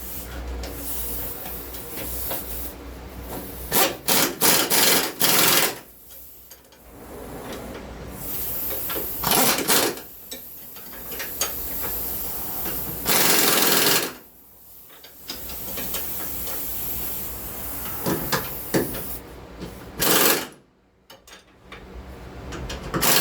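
Wrench run on the control-arm mount bolts of a 2003 Saturn Vue's front suspension: long stretches of steady rapid mechanical clatter, broken by short pauses and a few louder sharp bursts, the loudest about thirteen seconds in.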